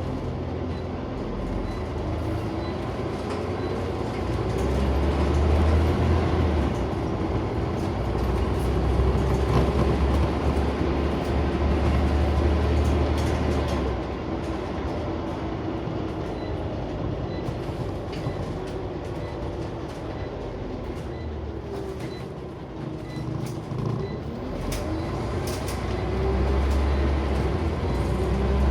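Scania OmniCity single-deck bus's diesel engine driving the bus, heard from inside the cabin as a low rumble. The engine pitch rises and falls. It grows louder about five seconds in, eases off around the middle, and builds again near the end.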